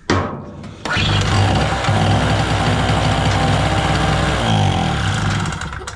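Small two-stroke generator engine pull-started: it catches about a second in, runs steadily for a few seconds, then falters and dies away near the end. The mechanic puts this down to a carburetor problem.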